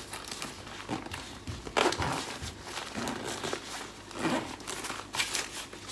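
Plastic packaging crinkling and rustling as it is handled, in a string of separate crinkles about a second apart.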